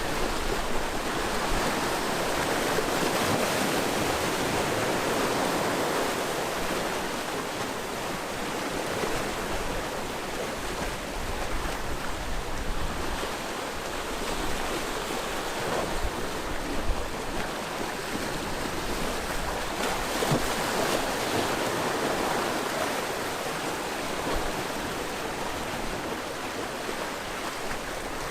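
Sea waves washing onto a rocky shore, a steady rush of surf that swells and eases, with low gusts of wind on the microphone.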